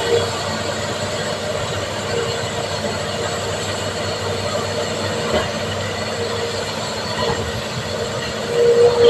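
Tracked excavator working, its engine running under a steady metallic squeal that swells briefly near the end, with a faint knock about halfway through.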